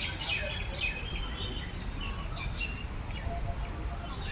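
A steady, high-pitched drone of insects, with small birds giving many short chirps over it and a low background rumble.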